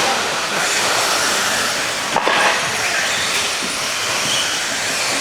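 Electric RC stadium trucks racing around the track: a steady, dense whir of their motors.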